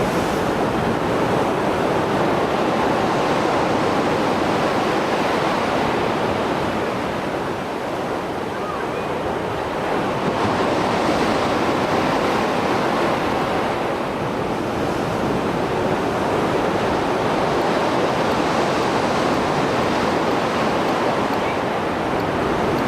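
Mediterranean surf after a storm, waves breaking and washing ashore in a continuous rush that swells and eases every several seconds, with some wind noise on the microphone.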